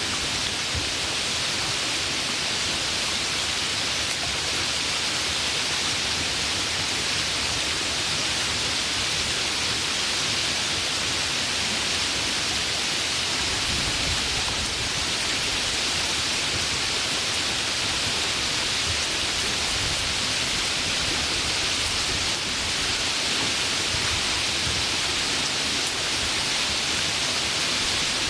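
Steady rain, an even hiss of falling water with no separate drops or thunder standing out.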